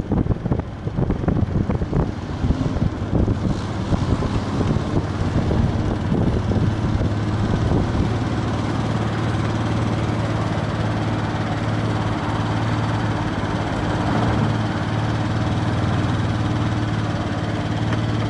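Viper V250-C cruiser motorcycle engine running steadily. Wind buffets the microphone in gusts during the first few seconds.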